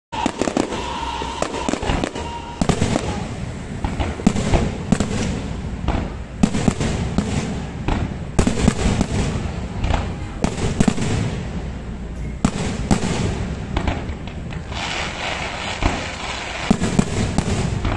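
Fireworks display: aerial shells bursting one after another at uneven intervals, with crackling over a steady background rumble.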